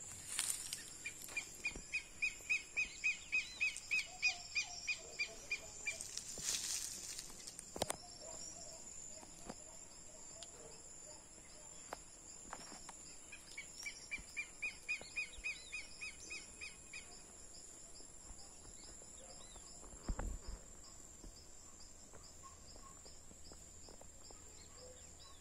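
A bird singing two bouts of quick, evenly repeated short notes, about five a second, over a steady high-pitched insect drone.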